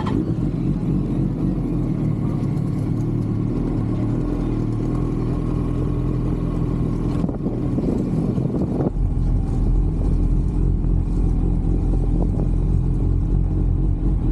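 Sport motorcycle engines running steadily, with a deeper, louder low rumble setting in about nine seconds in.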